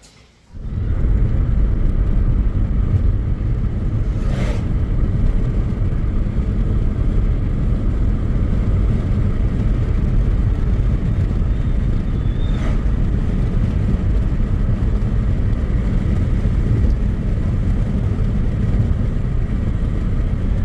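Vehicle running steadily at speed: a loud, even low rumble of engine and road noise that starts abruptly about half a second in.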